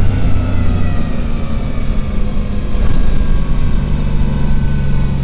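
Rally car engine heard from inside the cabin at speed, its revs sliding gradually downward, with a brief knock about three seconds in.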